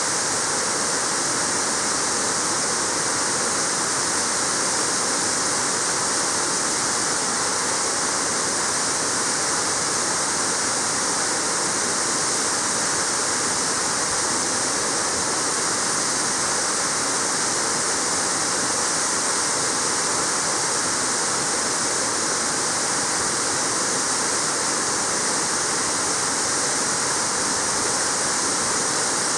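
Waterfall: water falling and splashing in a steady, unbroken hiss of rushing water.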